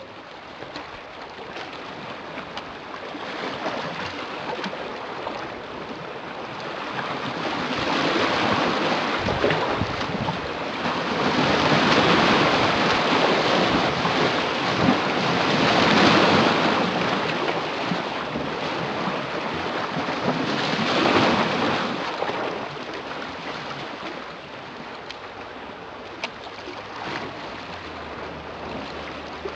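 Sea waves breaking on the shore: a steady wash of surf that swells into about four louder breakers, each building and falling away over a few seconds, the loudest about halfway through.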